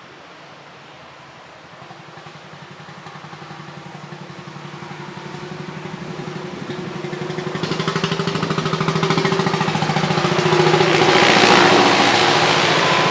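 An old tractor engine running with a fast, even firing beat, growing steadily louder as it approaches, loudest a couple of seconds before the end and just starting to fade as it passes.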